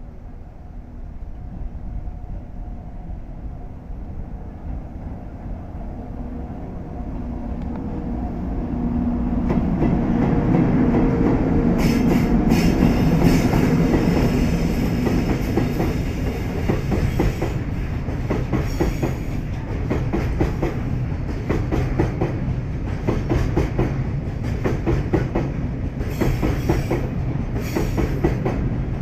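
Freight train hauled by a pair of EF64 electric locomotives approaching and running past: a rumbling hum that builds to its loudest about a third of the way in, then a long run of wheels clattering over rail joints as the tank wagons roll by.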